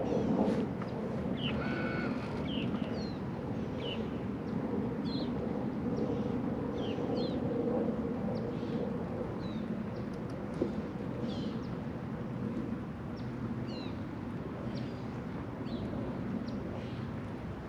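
A bird calling over and over with short, high, down-slurred chirps, roughly one a second, over a steady low rumble of wind and water.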